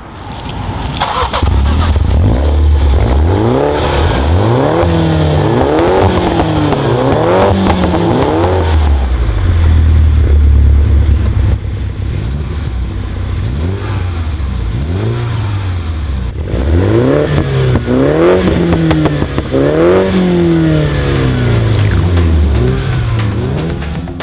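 MINI's turbocharged 2.0-litre four-cylinder engine, breathing through a Quicksilver Sound Architect sport exhaust, accelerating hard through several gears. The pitch climbs and drops back at each upshift. About halfway through it eases off, then it pulls through the gears again.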